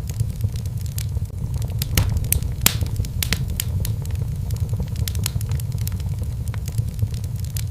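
Fire crackling in a fireplace: irregular sharp pops and snaps over a steady low rumble, with the loudest pops about two and a half seconds in.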